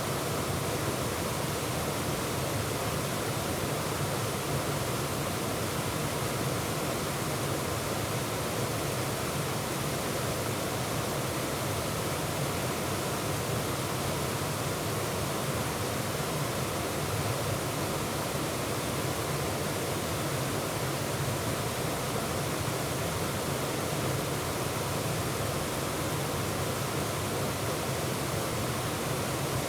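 Waterfall heard from close up in the middle of the falls: water rushing steadily over rocks in an even, unbroken roar.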